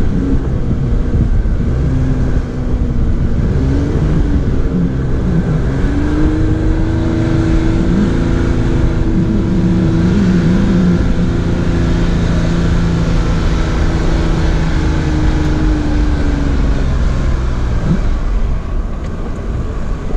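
Jeep Wrangler engine working under load while driving through deep sand, over a steady low rumble. The revs rise about six seconds in, hold with some wavering, and ease off near the end.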